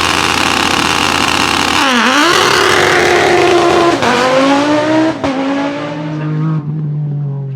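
Prospeed Audi Sport Quattro S1 rally car's turbocharged five-cylinder at full throttle. About two seconds in it makes a quick lift-and-back-on, then it climbs through gears with shifts near four and five seconds and a sharp crack at the second shift. It fades as the car pulls away.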